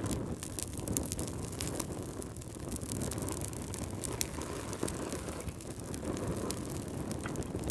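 Wood fire crackling: a steady low rush of flame with frequent sharp pops and snaps.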